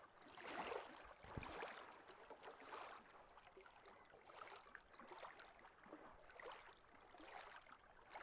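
Faint shoreline ambience: small waves lapping and splashing in an irregular run of soft sounds.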